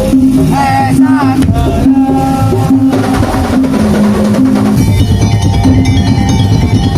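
Percussion ensemble playing musik tongtong (daul): drums with a repeating pitched melody line. A brief wavering high note rises over it about a second in, and the texture of the music changes about five seconds in.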